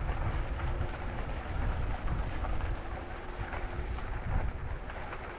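Wind buffeting the microphone while riding an e-bike, a steady rumbling rush with the ride's rolling noise underneath and a faint steady hum. The rumble eases off near the end.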